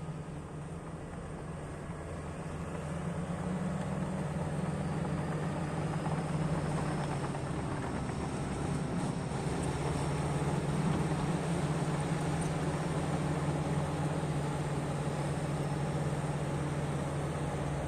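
Heavy diesel earthmoving machine running steadily with a low drone, growing louder over the first few seconds, then holding even.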